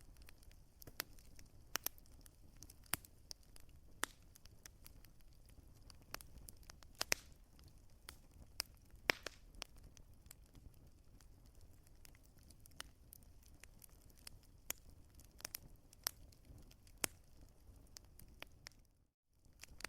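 Wood fire crackling, with irregular sharp pops and snaps over a low, steady hiss. The sound cuts out for a moment near the end.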